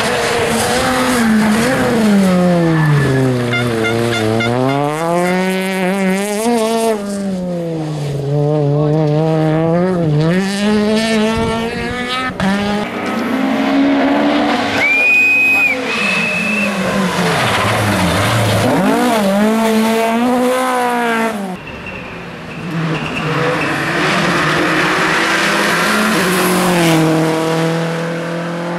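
Rally car engines revving hard, the pitch climbing and dropping sharply through gear changes and lifts, as several cars pass in turn. A short high whistle comes about halfway through.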